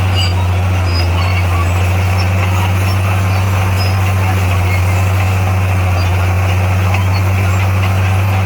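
Bulldozer's diesel engine running steadily, a constant low drone with no changes in pitch.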